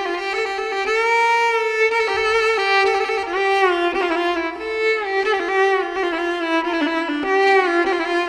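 Background music: a violin playing a melody in long held notes.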